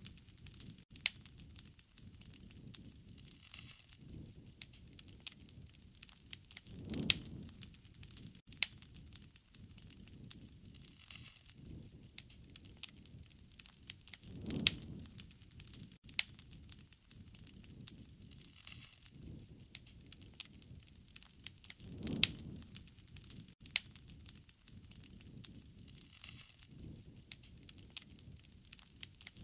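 Campfire burning, with dense crackling and frequent sharp pops and snaps. A low rumble swells and fades about every seven or eight seconds.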